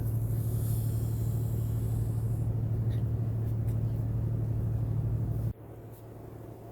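Steady low drone of a ship's engine machinery, humming evenly, then cutting abruptly about five and a half seconds in to a much fainter hum.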